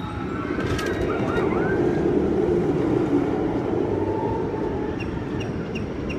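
Amusement ride running with a steady, heavy rumble, over which short siren-like wailing tones rise and fall.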